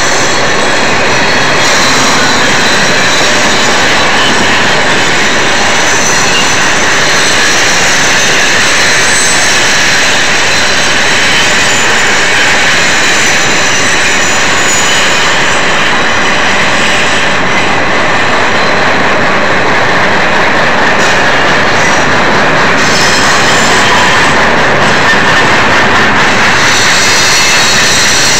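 Union Pacific double-stack intermodal train rolling past at close range: a loud, steady rush of steel wheels on rail from the container cars, with faint thin high-pitched wheel squeal above it.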